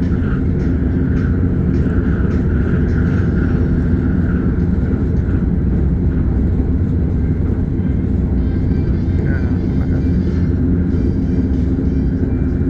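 KLIA Express electric train running at speed, heard from inside the carriage: a steady rumble with a constant hum.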